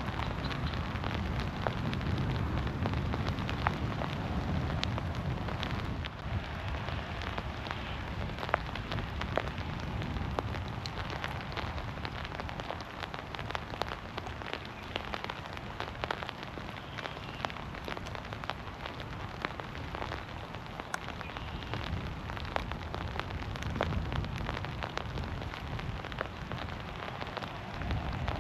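Heavy rain falling through woodland trees: a steady hiss with many separate drops ticking close by, over a low rumble that eases off about six seconds in.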